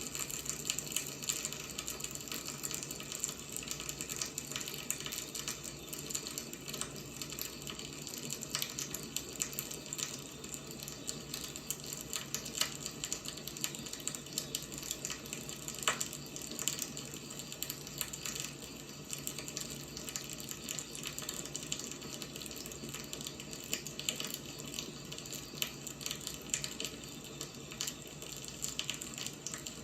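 Burning firewood crackling and popping irregularly over a steady hiss, with one sharper pop about sixteen seconds in.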